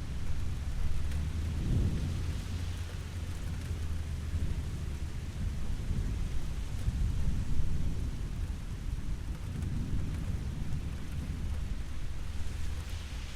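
Steady rain with a continuous deep rumble of distant thunder underneath, swelling slightly now and then.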